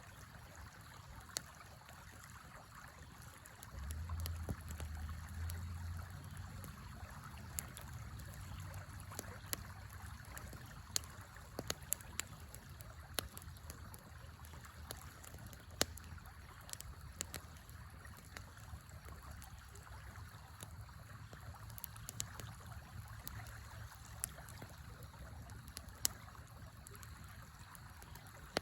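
Campfire crackling with scattered sharp pops over the steady rush of a river. A low rumble comes in about four seconds in and stays faintly underneath.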